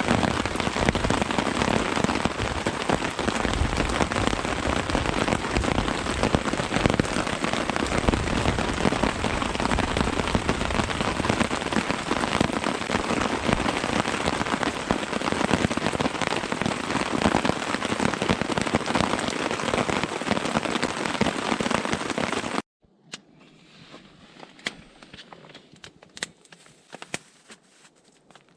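Heavy rain falling as a steady, dense patter. About 23 seconds in it cuts off abruptly to a much quieter scene with a few faint ticks and drips.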